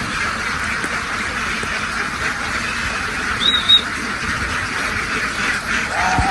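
A large flock of ducks quacking together in a dense, continuous chatter. A brief high-pitched call stands out about three and a half seconds in.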